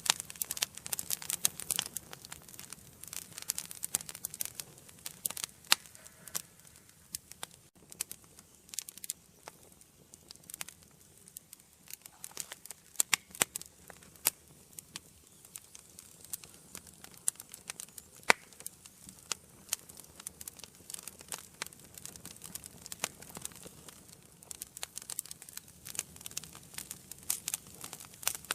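Wood fire crackling in an indoor fireplace: frequent sharp pops and snaps at irregular intervals over a faint hiss, with denser bursts of crackling near the start and near the end.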